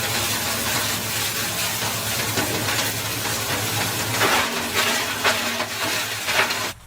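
Small wood chipper-shredder running steadily, its blades crunching through branches, with sharper cracks in the second half as pieces are fed in. The sound cuts off suddenly near the end.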